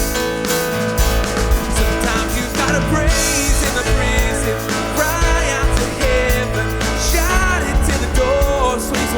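Live worship band playing an instrumental passage in a rock style, with drums, bass guitar, electric guitar and piano. A bending melodic line rises and falls over the band a few times.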